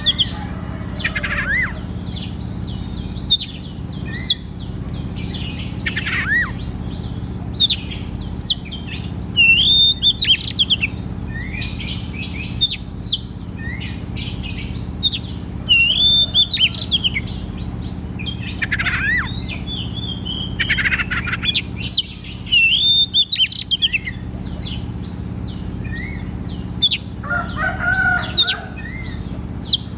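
Oriental magpie-robin (kacer) singing in full voice: a continuous run of loud whistled phrases with rising and falling notes, one curved whistle figure returning every few seconds. A steady low hum runs beneath.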